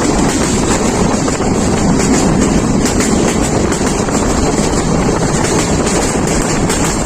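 Jayantika Express intercity passenger train running at speed: a steady, unbroken rushing rumble.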